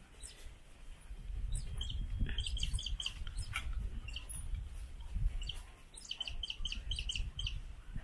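Young birds chirping in short, high, rapidly repeated calls, in two runs a few seconds apart. A low background rumble runs underneath.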